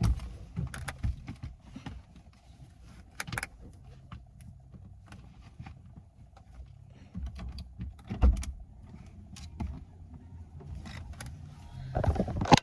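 Scattered light clicks and knocks over a low rumble, with a louder knock about eight seconds in and a cluster of knocks near the end.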